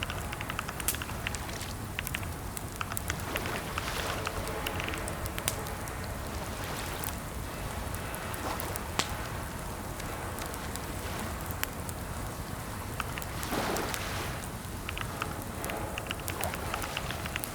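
Computer keyboard typing: irregular runs of keystroke clicks over steady background noise.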